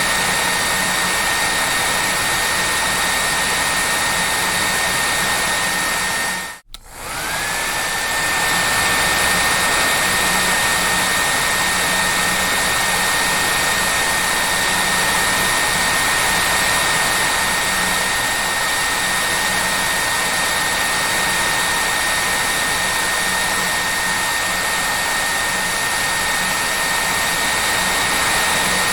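Hair dryer blowing steadily: a loud rushing of air with a high motor whine. About six and a half seconds in, the sound drops out for a moment, then the whine climbs back up to its steady pitch.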